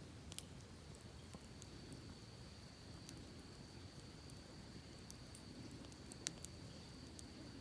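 Campfire crackling faintly with scattered sharp pops, one louder pop about six seconds in, over a low steady rush of creek water. A steady thin high tone comes in about half a second in and holds.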